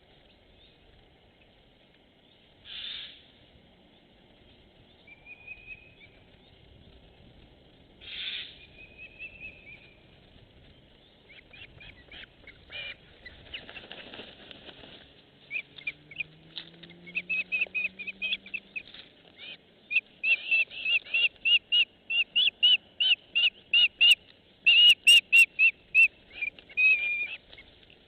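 A bird calling: a few separate calls, then a fast run of short high notes that grows louder over its last ten seconds.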